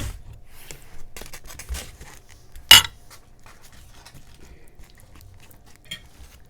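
Cutlery clicking and scraping against a plate while scooping Doritos nachos, with one loud, sharp clink a little before the three-second mark.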